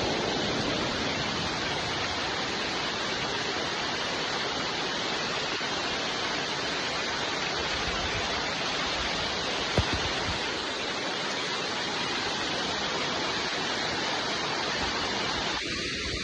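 Steady rain, a dense even hiss with no let-up. One short sharp click about ten seconds in.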